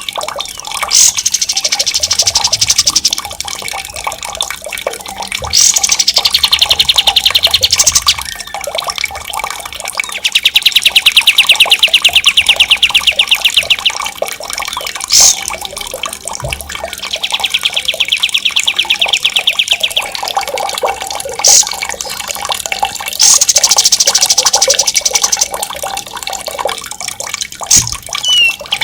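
Songbird giving long, fast rolling trills, high-pitched and two to four seconds each, five times with short sharp calls between, over a steady sound of running water.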